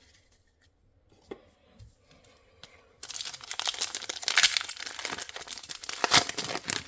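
Quiet handling with a few small clicks, then about three seconds in a foil Pokémon booster pack wrapper is torn open and crinkled in the hands, a dense crackling rustle that lasts to the end.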